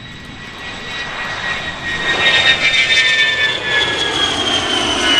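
Airplane flying past low and loud, its engine growing louder over the first two seconds, then with a whine that slowly falls in pitch as it passes.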